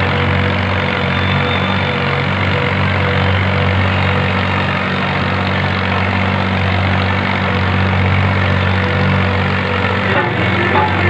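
Tractor engine running steadily, a deep, even drone with no revving.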